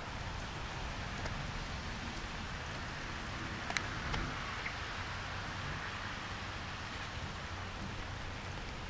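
Steady rain falling during a night thunderstorm, with one sharp tick a little under four seconds in.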